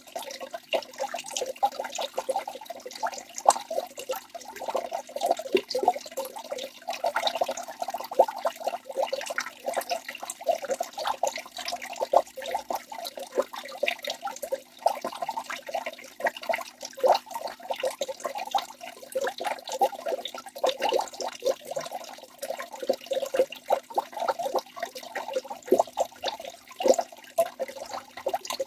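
A waterfall splashing and gurgling without pause: a dense, irregular patter of small splashes.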